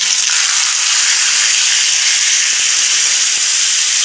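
Boiled, wet taro pieces tipped into hot oil in a wok, setting off a loud, steady sizzling hiss that starts all at once.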